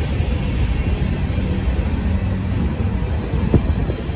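Freight train cars rolling past on the rails: a steady low rumble of wheels on track, with a single clank about three and a half seconds in.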